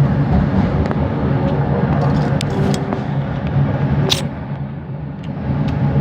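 Bombardier Innovia ART 200 light metro train running, heard from inside the car: a steady rumble with a low motor hum. A sharp click comes about four seconds in, and the noise briefly drops just after.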